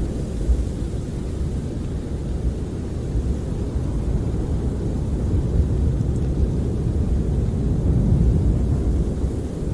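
Snowstorm wind blowing hard, a steady low rush of noise that swells a little about eight seconds in.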